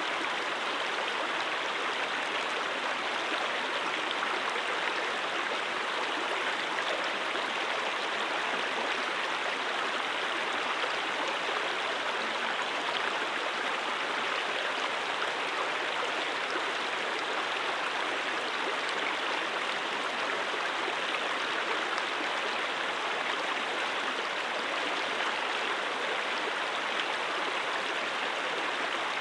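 Brook water flowing, a steady, unbroken rushing and babbling of a stream.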